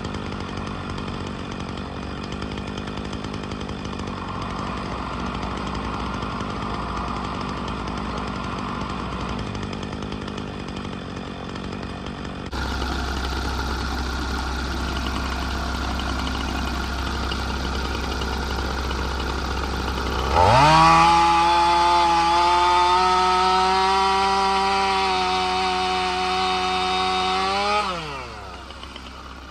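Chainsaw engine idling, then revved up sharply to high throttle about two-thirds of the way through, held steady at full speed for about seven seconds, and let fall back to idle near the end.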